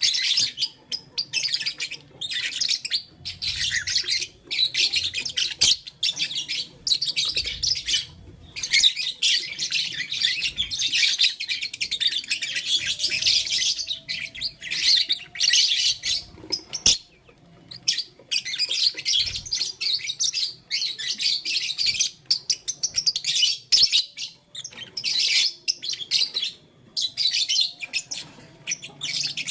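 Pet lovebirds chirping in fast, high, almost unbroken chatter with short pauses, and one sharp click about halfway through.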